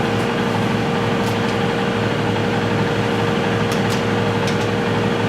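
Steady machine hum with a constant mid-pitched tone, unchanged throughout, with a few faint light clicks about a third of the way in and again near the end.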